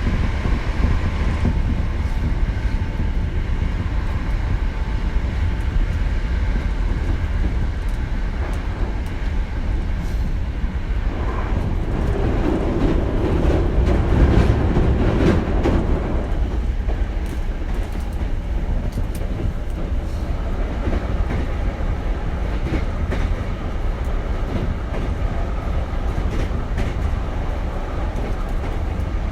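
Hankyu 7000-series electric train running at speed, heard from inside the passenger car: a steady rumble with wheels clicking over rail joints. About twelve seconds in, a louder rushing sound swells for a few seconds, then fades.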